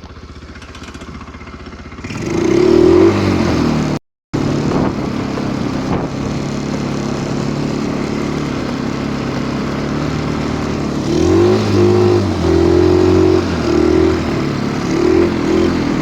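Stels Kapitan Long snowmobile engine, quiet at first, then revving up about two seconds in. The sound cuts out briefly at about four seconds, then the engine runs steadily, with several revs rising and falling near the end.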